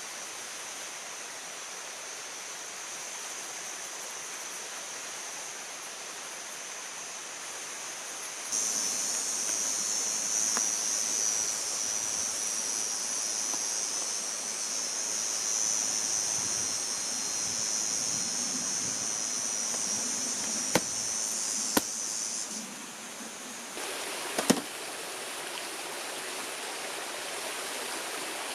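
Steady rushing water noise. The sound changes abruptly twice, and a strong high hiss sits over the middle stretch. A few sharp clicks come near the end.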